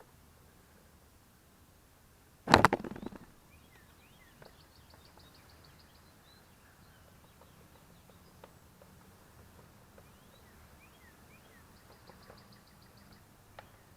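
A brief loud clatter about two and a half seconds in, with faint birds chirping and a few light ticks and knocks of work on the bike.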